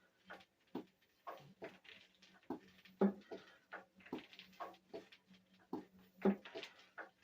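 A Witte diesel engine being turned over slowly with the compression released, not firing. It makes a steady run of clicks and knocks a few times a second, with a heavier knock about every three seconds over a faint low hum.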